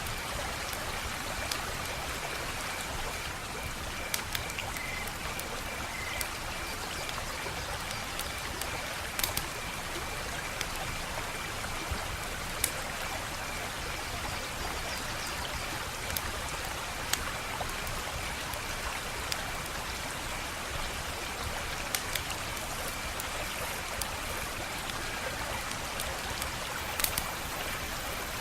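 Wood fire burning with a steady hiss and low rumble, broken by irregular sharp pops and crackles of the burning wood.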